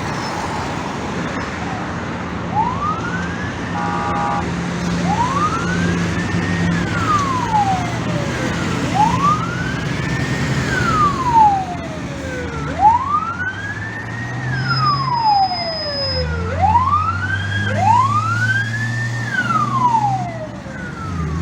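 Fire engine siren on the wail setting: a tone that slowly rises and falls, about one sweep every three and a half seconds, starting a couple of seconds in. A vehicle engine runs underneath.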